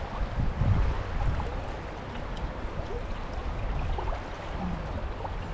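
Big, fast-flowing river water rushing steadily, with a louder low rumble during the first second or so.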